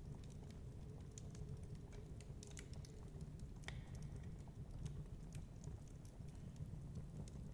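Wood fire crackling in a fireplace, with irregular sharp pops and snaps over a low, steady rumble of storm wind.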